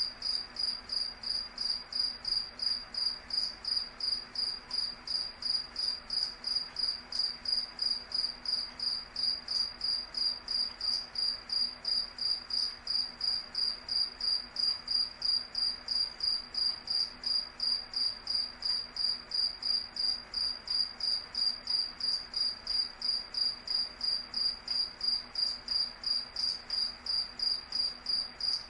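Cricket chirping: a steady high-pitched trill repeating evenly at about two to three chirps a second.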